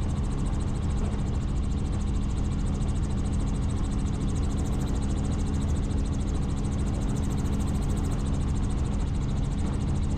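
Helicopter in flight, heard from the cabin: rotor and engine running steadily as a dense low drone with a fast, even pulsing.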